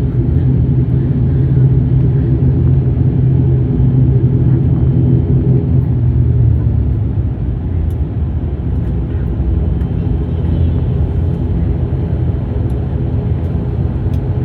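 Turboprop airliner's engines and propellers running, heard inside the cabin while the aircraft taxis after landing. It is a steady low drone with several pitched lines and eases a little about halfway through.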